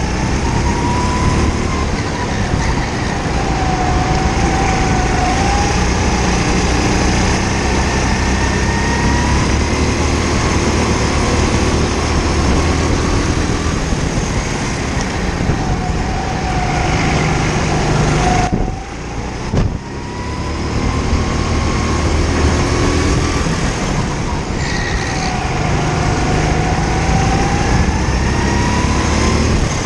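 Rental kart engine running under load, its pitch rising and falling again and again as it speeds up and slows through the corners. About two-thirds of the way in the engine note drops away briefly, then picks up again.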